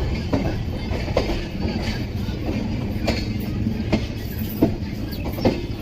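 Humsafar Express passenger train running along the track: a steady rumble of the wheels with sharp clacks over rail joints, roughly one a second at uneven intervals.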